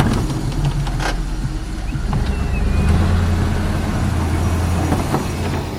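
Engine of a vehicle plowing snow, running steadily with a low drone that grows louder about halfway through and then eases slightly.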